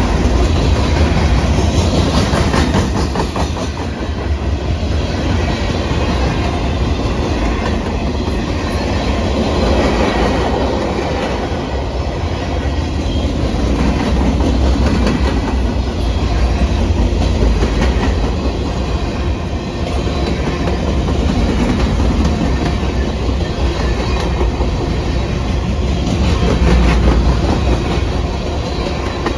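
Railroad cars rolling past, steel wheels clacking over rail joints over a continuous low rumble.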